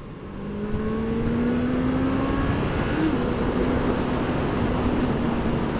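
Motorcycle engine accelerating, its pitch climbing steadily for about two seconds, then wavering about three seconds in and holding steady at cruising speed, over a rush of wind noise.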